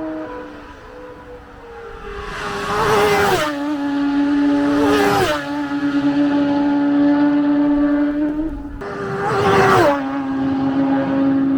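Racing motorcycles flying past at full speed three times, each engine note dropping sharply in pitch as it goes by, the second pass close behind the first. Between passes a steady high engine note carries on.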